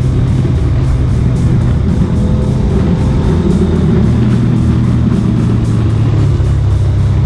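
Motorcycle engine running at a steady speed, mixed with a music track with guitar.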